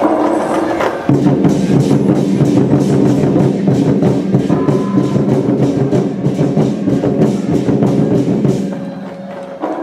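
Lion-dance percussion band playing a fast, dense drum rhythm with ringing metal percussion, louder from about a second in and easing off near the end.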